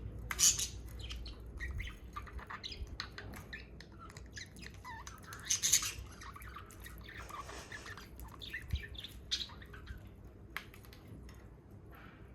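Budgies squawking and chirping in quick, scattered calls as they squabble over food, with a loud harsh squawk about half a second in and another a little past the middle.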